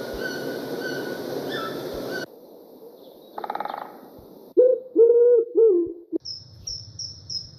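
An owl hooting three times, low and loud, in a compilation of separate animal-call clips. It follows a noisy stretch with faint high calls, and a quick run of high chirps comes near the end.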